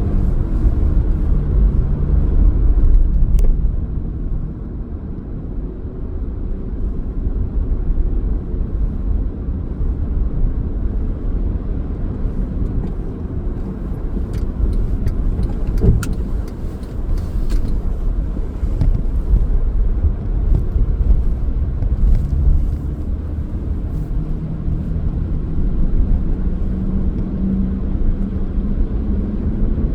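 Car driving: a steady low engine and road rumble, with the engine note rising and easing at times and scattered light ticks through the middle.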